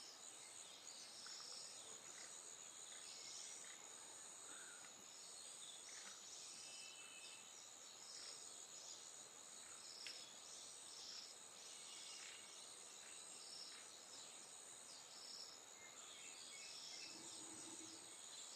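Faint natural ambience: a steady high-pitched insect drone with short high chirps repeating irregularly throughout, and a few brief calls scattered among them.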